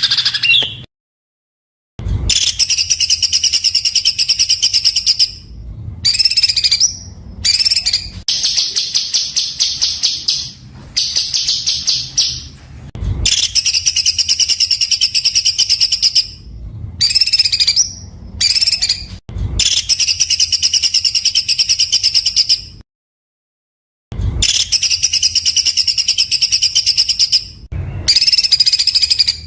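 Songbird song made of rough, very dense rapid-fire bursts of notes. The phrases last one to four seconds and are separated by short pauses. Twice, about a second in and again past the middle, the sound cuts to a second of complete silence.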